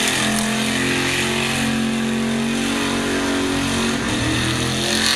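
Burnout tow truck's engine held at high revs while its rear tyres spin and smoke, a steady revving note over the hiss of the tyres. The note dips and recovers about four seconds in.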